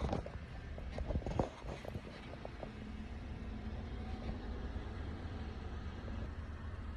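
Car engine idling with a steady low rumble, heard from inside the car. A few light clicks and knocks come in the first two seconds.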